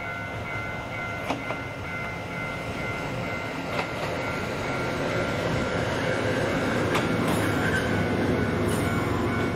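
JR Hokkaido H100 'DECMO' diesel-electric railcar approaching and passing beneath, its engine and wheels on the rails growing louder from about halfway through. A few sharp clicks come from the wheels over rail joints.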